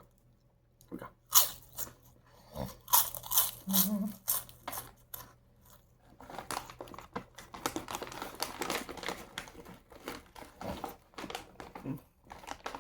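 Crispy seaweed chips being bitten and chewed: separate crisp crunches, then denser crackly chewing from about halfway, with some crinkling.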